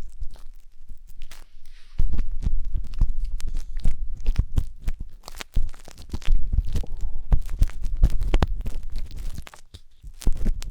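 Wooden skewer scraping and poking inside a binaural microphone's silicone ear, a close run of crackling scratches and clicks with deep rumbles where it presses on the ear. It eases off briefly near the start and again near the end.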